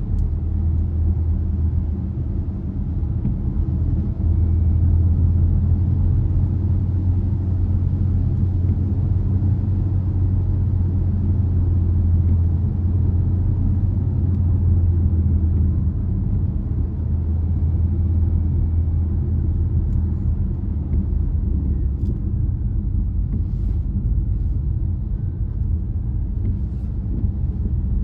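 Car driving at a steady pace: a steady low rumble of engine and road noise.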